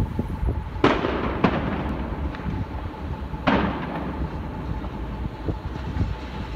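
Three firecracker bangs, two close together about a second in and a third about two seconds later, each with a short ringing tail, over the low rumble of a passing train.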